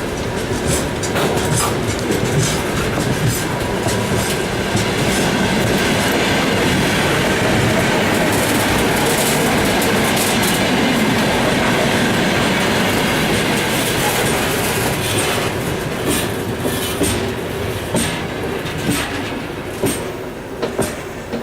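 Freight train wagons rolling past, with a steady rumble and the rhythmic clatter of wheels over rail joints, along with some wheel squeal. The clacks stand out more in the last few seconds as the sound begins to die away.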